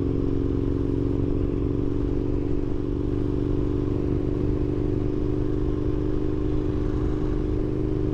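Aprilia RSV1000's V-twin engine running at a steady engine speed under a held throttle while the motorcycle cruises, its pitch unchanging.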